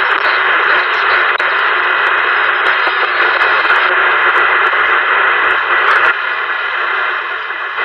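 Radio static: a steady hiss with scattered faint crackles, shifting slightly about six seconds in and dipping near the end.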